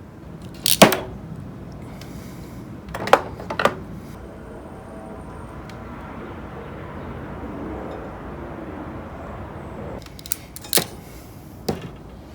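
A handful of sharp knocks and clacks of hard parts and tools being handled and set down during reassembly. The loudest comes about a second in, a pair follows around three seconds in and two more near the end, over a steady low background noise.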